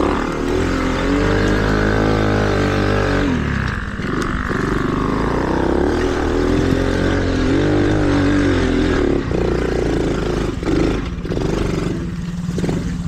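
Small single-cylinder mini bike engine revving up and down while riding a dirt trail. Its pitch climbs through the first few seconds, drops, climbs and falls again in the middle, then holds steadier near the end.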